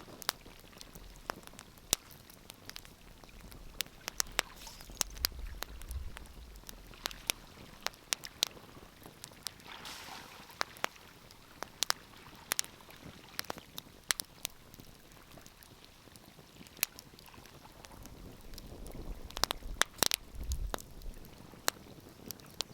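Wood fire crackling in a fireplace: irregular sharp pops and snaps over a low steady hiss, with a brief hissing spell about ten seconds in and low rumbles near the start and near the end.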